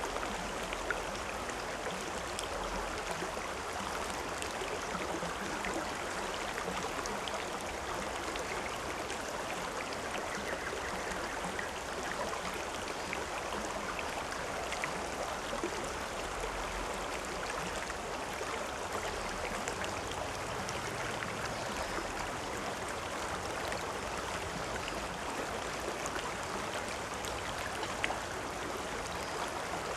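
River or stream water flowing and splashing steadily, an even rushing with small scattered splashes.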